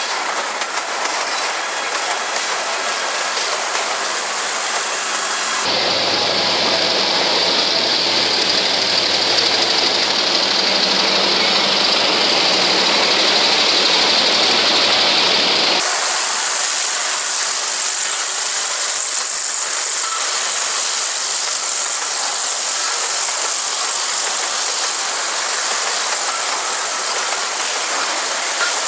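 Freight train wagons rolling past close by, with steady wheel and rail noise. From about six seconds in, for about ten seconds, the diesel engine of a GM G22UC helper locomotive in mid-train runs, with a strong hiss, before the rolling noise of the grain hopper cars returns.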